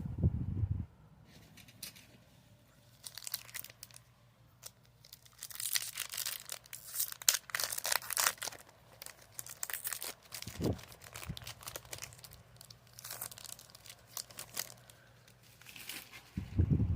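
Foil Pokémon card booster pack wrapper being torn open and crinkled, in scattered bursts of crackling, with dull thumps at the start and near the end.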